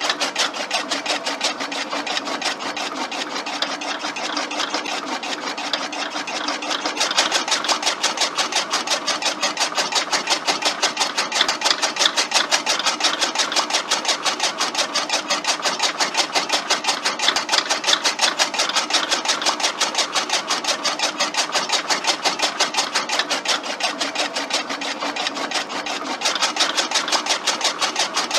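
A small electric motor driving a homemade miniature chaff cutter, running with a fast, even mechanical clatter. It gets louder about seven seconds in.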